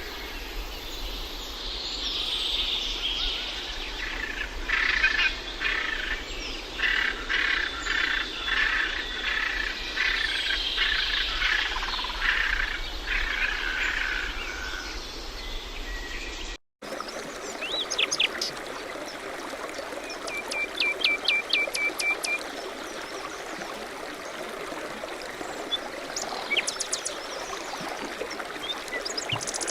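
Birds chirping and singing: a busy chorus of overlapping calls for about the first half, then after a brief cut a quieter scene of scattered calls, with one rapid trill of about eight quick notes.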